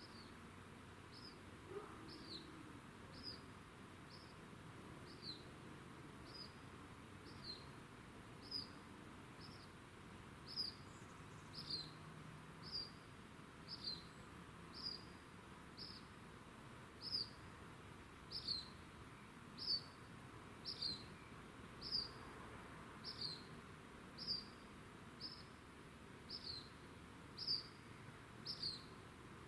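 Cricket chirping at night: one short, high chirp about once a second, at a steady rate, growing louder after the first few seconds.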